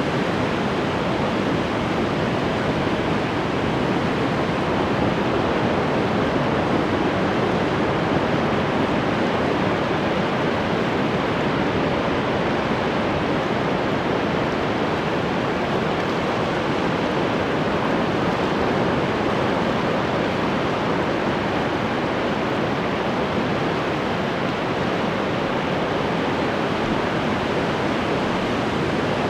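Ocean waves washing ashore in a steady rush of surf, with no single break standing out.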